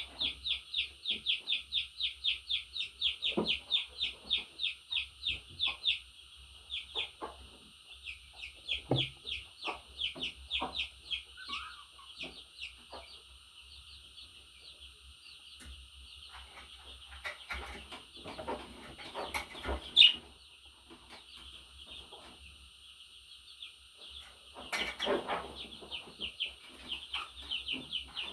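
Budgerigar chirping: a fast, even run of short high calls, about five a second, for the first six seconds, then more irregular chirps and chatter. Scattered light taps come through, with one sharp knock about twenty seconds in.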